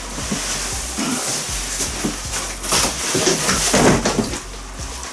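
Packaging rustling, crackling and scraping as a microwave oven is worked out of its cardboard box, with irregular crinkles and knocks that grow louder about three seconds in.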